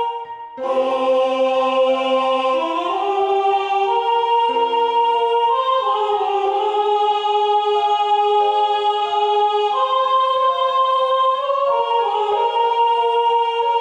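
Choral rehearsal learning track: several vocal parts moving together in sustained chords, with the second soprano line mixed louder than the rest. There is a brief gap about half a second in before the chords resume.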